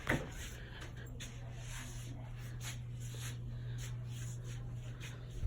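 Regency ceiling fan's motor humming steadily at high speed, after a sharp click right at the start.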